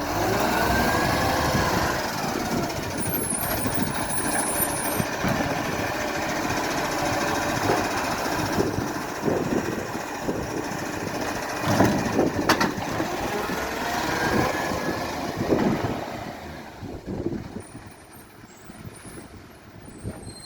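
Garbage truck working, its engine rising and falling in pitch, with knocks and a sharp bang about twelve seconds in; the sound dies away in the last few seconds.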